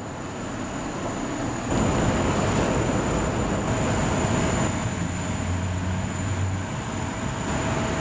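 A moving vehicle running: a steady rumble and hiss with a faint high whine, growing louder about two seconds in.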